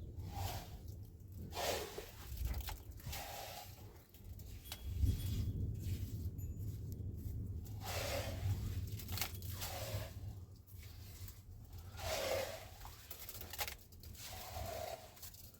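Irregular rasping, scraping strokes at roughly a second apart, over a steady low rumble.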